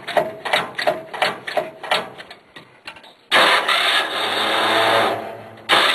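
Cold start of a Versatile 400 swather's Ford 200 inline-six gasoline engine. The starter cranks it over with an even chug of about four pulses a second for some three seconds, then the engine catches and runs loud. It sags briefly near the end and picks up again.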